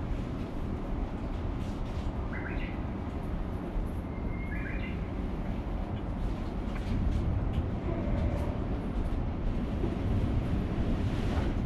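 Steady low rumble of a train standing at a station platform, with two short chirps, likely bird calls, about two and a half and four and a half seconds in.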